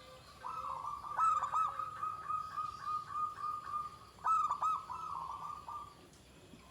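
Zebra dove (perkutut) cooing: a long, high, ringing run of notes, with two louder clusters of quick dipping notes about a second in and again past the four-second mark.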